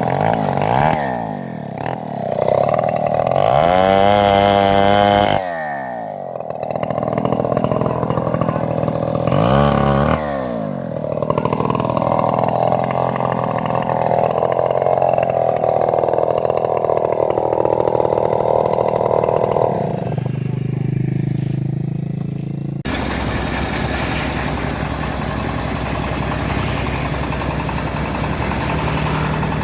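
Engine of a homemade bandsaw mill running, revving up and down several times, then holding a steady strained note while sawing a trembesi log. Near the end it drops to a lower, steadier run.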